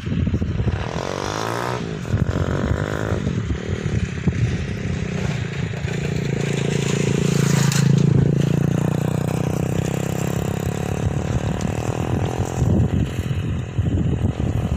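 A motor vehicle's engine running close by, its pitch gliding about a second in, then growing louder to a peak about eight seconds in and fading. Ragged wind noise buffets the microphone throughout.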